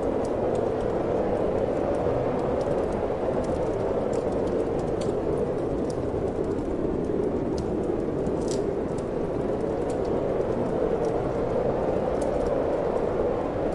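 Steady wind noise, low and even, with the scattered small crackles and pops of a wood fire burning in a fireplace; one pop is louder about halfway through.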